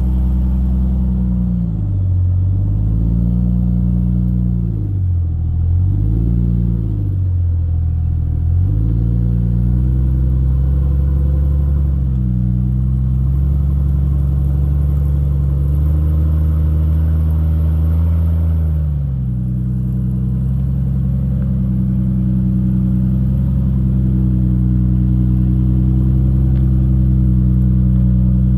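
Jeep Cherokee XJ engine revving up and down in several throttle blips, then holding steady revs that rise a little and drop back about two-thirds of the way through.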